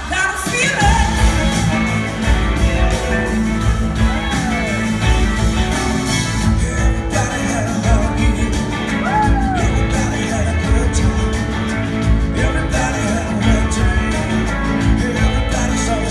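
Live rock band playing, with singing over electric guitar, bass and drums.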